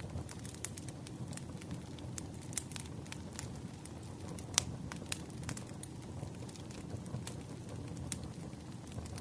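Campfire crackling: irregular sharp pops and snaps over a steady low rumble of burning, with one louder pop about halfway through.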